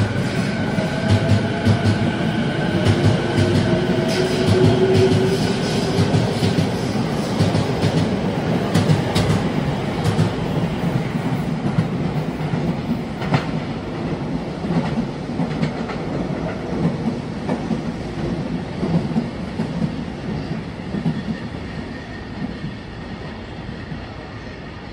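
Sotetsu 12000 series electric train pulling away: wheels clicking over rail joints and a motor whine rising in pitch as it gathers speed. The sound fades steadily as the train draws off.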